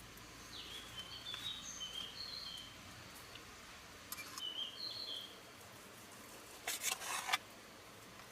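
A bird singing outdoors in two short phrases of high chirps, over a faint steady hiss. A brief clatter of several quick clicks comes near the end, the loudest sound.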